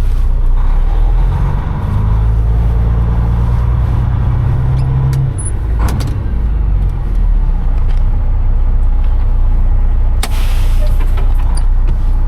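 Semi truck's Detroit Diesel Series 60 engine running, pulling harder for about three seconds starting near two seconds in, then easing back. A few sharp clicks follow, and later a short hiss of released air.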